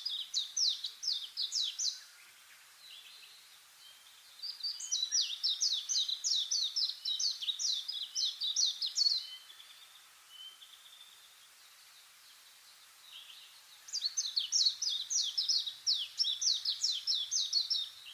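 A songbird singing in repeated bouts of quick, high, down-slurred notes, about three notes a second. One bout ends about two seconds in, another runs from about four to nine seconds, and a third starts near fourteen seconds. A faint outdoor background hiss fills the pauses.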